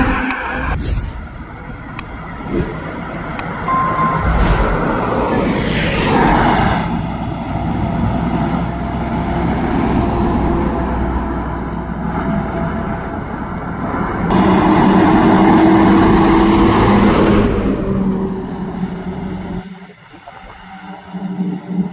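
Heavy truck engines running as loaded trucks move, with the noise growing louder from about fourteen seconds in and then falling away near the end.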